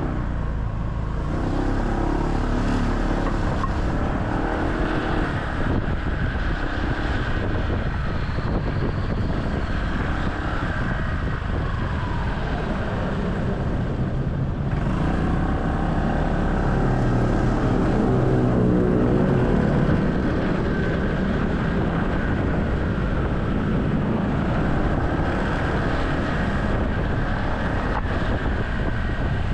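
A motorcycle taxi's engine running under way in traffic, its note rising and falling as the bike speeds up and slows, over a steady rush of road and wind noise.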